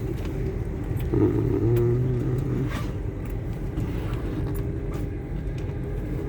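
Passenger train running, heard from inside the carriage: a steady low rumble with scattered faint clicks and rattles.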